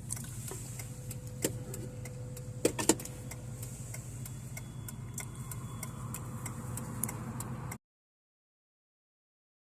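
Steady low hum of a vehicle's engine and road noise heard inside the cab, with a regular ticking about twice a second and a few louder clicks near three seconds in. The sound cuts out completely about two seconds before the end.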